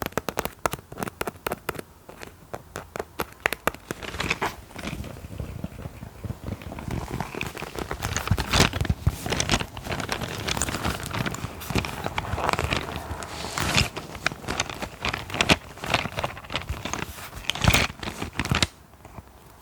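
Close-miked ASMR tapping and scratching: a quick run of tapping clicks in the first couple of seconds, then crinkly scratching with sharp ticks and a few louder scrapes.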